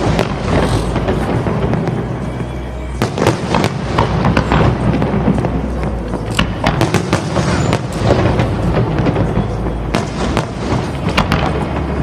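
Fireworks bursting overhead in rapid volleys of bangs and crackles, with music playing over loudspeakers.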